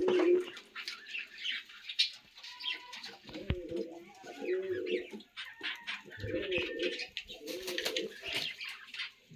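Domestic fancy pigeons cooing, a series of low throaty coos about once a second through the second half, mixed with sharp clicks and scuffles.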